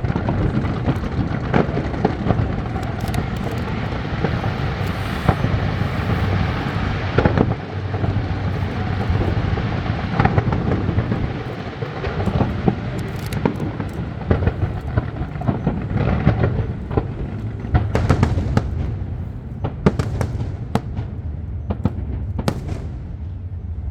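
Aerial fireworks display: a dense, continuous run of bangs and crackling, with many sharp reports scattered through it, thinning out a little near the end.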